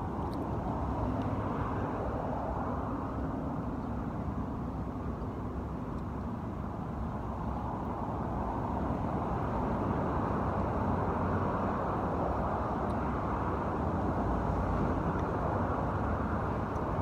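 Steady road traffic noise, an even wash that grows slightly louder about halfway through, with a faint engine drone in the first few seconds.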